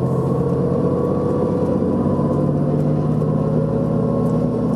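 Steady engine drone and rumble of a moving vehicle heard from inside its cabin, with a hum that slowly rises in pitch.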